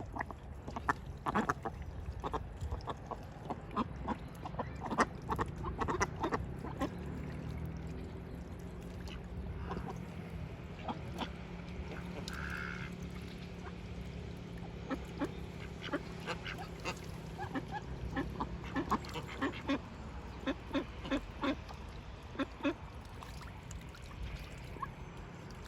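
Indian Runner ducks quacking, mixed with many short sharp clicks and taps.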